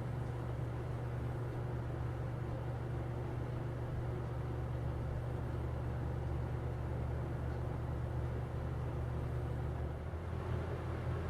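Air King 9723C 20-inch box fan running steadily: a low motor hum under the even rush of air from the blades. The hum shifts slightly about ten seconds in.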